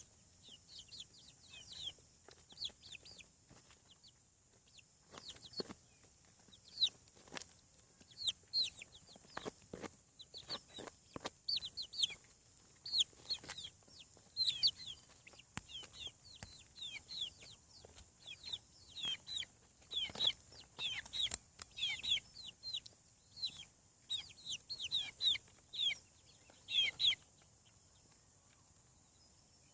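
Young chickens, chicks about seven weeks old, peeping: many short, high, falling peeps in quick succession, with scattered sharp clicks. The peeping stops near the end.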